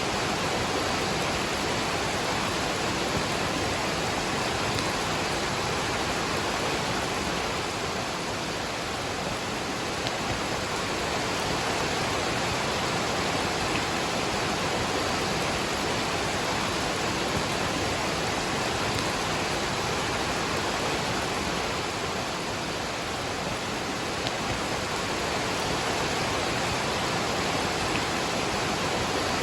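Waterfall and rain: a steady, even rush of falling water.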